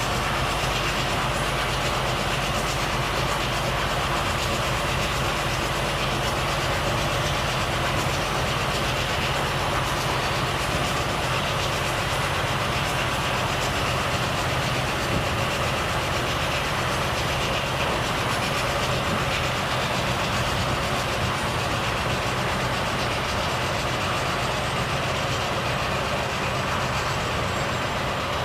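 Volvo FH truck's diesel engine running at a steady cruise under tyre and road noise, with no change in pace.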